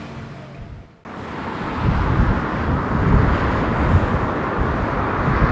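Tractor engines running as tractors drive by, with a loud, rough low rumble and wind buffeting the microphone. The sound drops out abruptly about a second in, then comes back at full strength.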